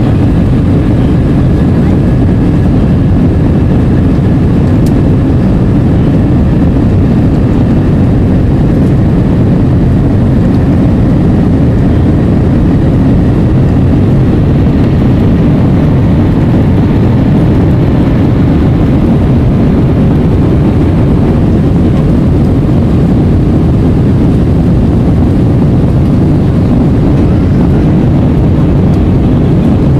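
Airbus A320 cabin noise in flight: a steady, loud, low rumble of engines and rushing air, unchanging throughout.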